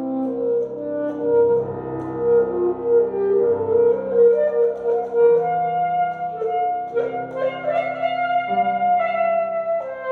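Alto saxophone playing a melody in long held notes over piano accompaniment, the saxophone coming in at the very start after the piano alone.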